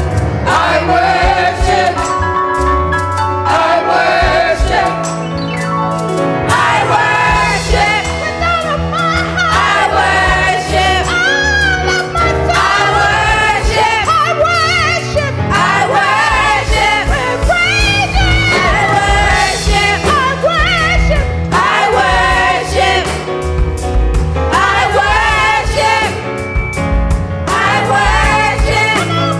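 Gospel choir and worship singers singing a worship song over a full band, with a steady bass line and a beat. The vocal lines swell and waver in long sung phrases.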